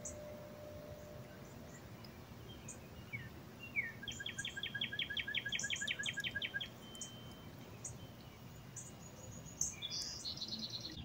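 Small birds singing: scattered short high chirps, and from about four seconds in a fast trill of some sixteen even notes, about six a second, lasting nearly three seconds, with another quick run of high notes near the end, over a low background rumble.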